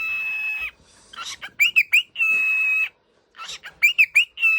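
Cockatiel whistling a repeated phrase: a few quick rising chirps followed by a long held note, about twice over, with a third held note starting at the end.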